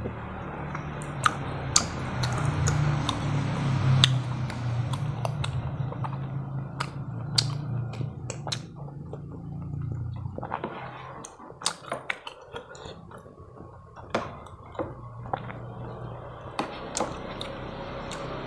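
Close-up eating sounds: chewing and mouth clicks, a series of short sharp snaps and smacks. A low steady hum lies underneath; it stops about ten seconds in and comes back near the end.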